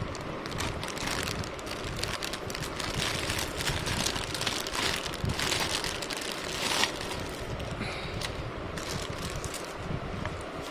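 Handling noise of an unboxing: rustling and crinkling of packaging and the plastic hair dryer being turned in the hands, with many small scrapes and light knocks.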